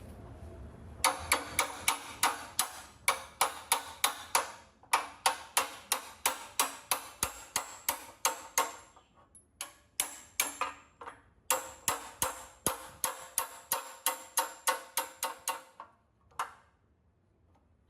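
Rapid hammer blows on metal, about four a second, each strike ringing briefly. The strikes pause twice and stop a second or two before the end.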